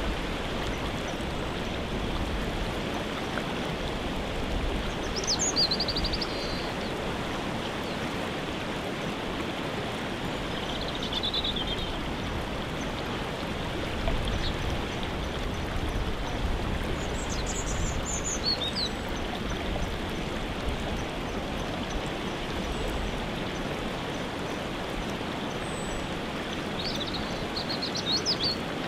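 Steady rush of a waterfall, with short bird calls over it a few times, high and brief.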